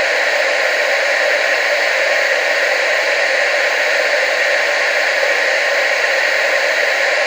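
Television static: a loud, steady hiss that does not change, strongest in the middle and upper pitches, with almost no bass.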